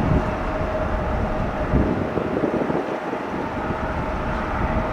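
Jet engines of a departing Boeing 737-900, a steady noisy rumble with a thin steady tone running through it, and wind buffeting the microphone.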